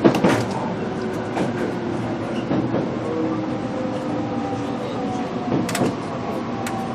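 Onboard sound of a JR Kyushu BEC819 battery-electric train running on battery power: a steady running noise with the faint whine of the VVVF inverter and traction motors, its tones drifting slowly in pitch. A few sharp clicks and knocks sound, about three times.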